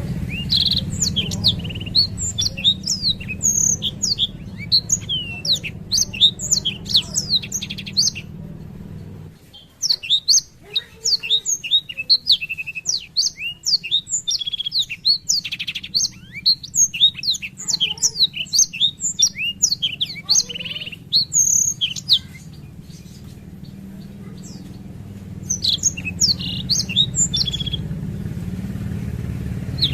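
Black-throated canary (blackthroat) singing long rolling phrases of rapid high chirps and trills, in three stretches with short breaks between. A low steady rumble lies under the song at the start and again near the end.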